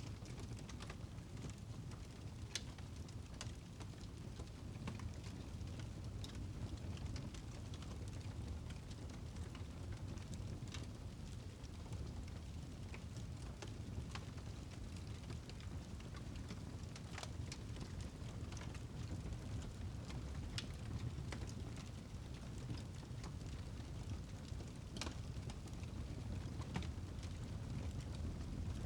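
Wood fire burning in a fireplace, crackling, with scattered sharp pops and snaps over a low, steady rumble.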